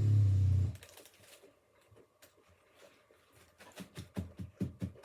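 A steady low hum that cuts off suddenly under a second in, then quiet, then from about three and a half seconds in quick, regular close-up chewing.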